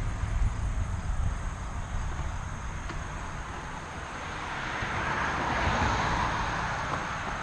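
A car passing on a road: its tyre noise swells to a peak about six seconds in and then fades. Wind rumbles on the microphone in the first second or so.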